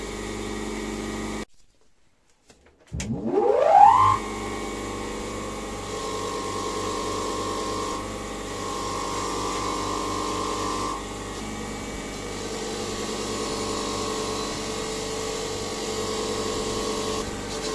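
Electric power tool motor running steadily. It cuts off, then about three seconds in it restarts with a rising whine as it spins up to speed and runs on steadily.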